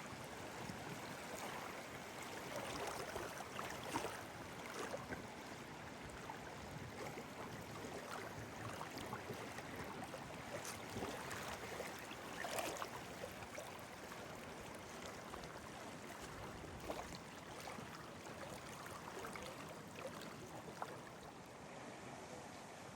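Gentle lapping of small lake waves, a faint steady wash of water broken by scattered small splashes and clicks.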